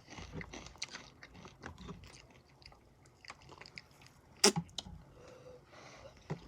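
Crunchy rolled tortilla chips (Takis) being chewed close to the microphone: a run of small crunches, with one much louder sharp crack about four and a half seconds in.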